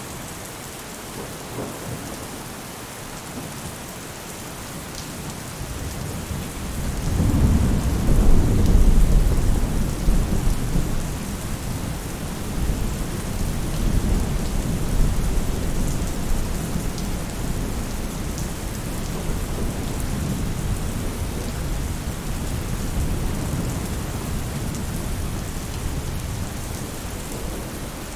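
Rain falling steadily on a roof, with a low thunder rumble swelling in about six seconds in, loudest around eight to ten seconds, then rolling on more quietly.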